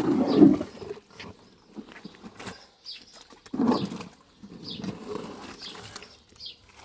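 A small bird chirping over and over in short high notes, over bursts of scraping or rustling noise, the loudest about a second long at the start and two more near the middle.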